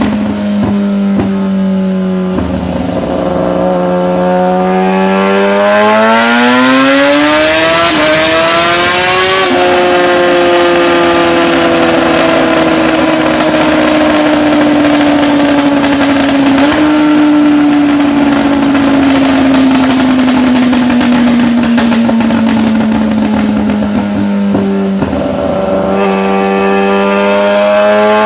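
Motorcycle with a straight-through exhaust running loud. Its note climbs over several seconds, then sinks slowly for about fifteen seconds, and rises again near the end.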